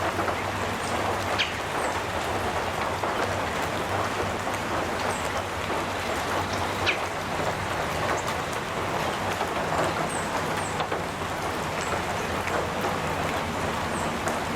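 Gentle rain falling steadily on a metal roof, a dense patter of small drops, with faint short bird chirps now and then.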